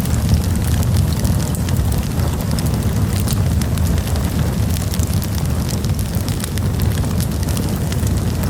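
Wood campfire burning: a steady low rumble of flames with frequent small crackles and pops from the burning wood.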